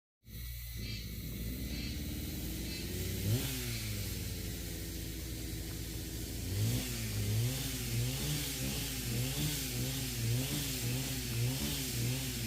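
An engine running, rising in pitch once and then revving up and down over and over at a steady rhythm, a bit more than once a second.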